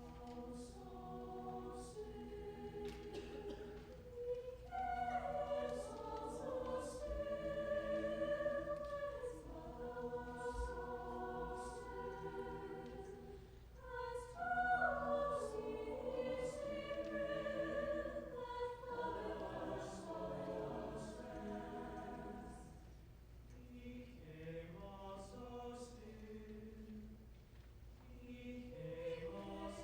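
High school choir singing in several voice parts, holding sustained chords that swell louder and soften again, with the 's' sounds of the words audible.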